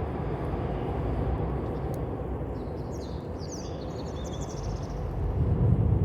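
Steady outdoor noise at a campfire, mostly a low rumble, with a bird chirping briefly in the middle.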